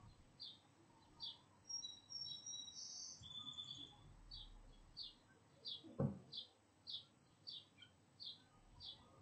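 A bird calling a short, high chirp over and over, about once or twice a second, with a brief whistled phrase from another bird about two seconds in. A single sharp knock about six seconds in is the loudest sound.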